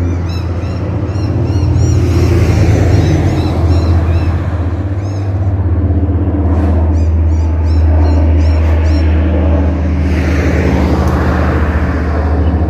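Jet airliner passing low overhead, a steady deep rumble that swells near the end, with birds chirping in the first half.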